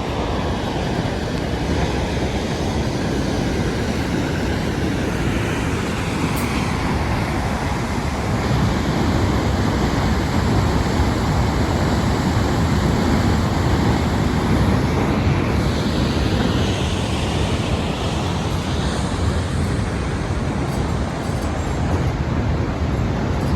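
Steady roar of a large waterfall and fast river rushing below.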